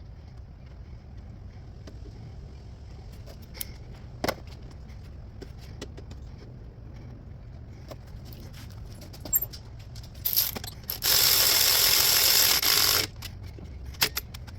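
Scattered clicks and clinks of tools and metal parts while an alternator is being fitted into a car's engine bay. About eleven seconds in comes a loud steady rush of noise lasting about two seconds, then it stops.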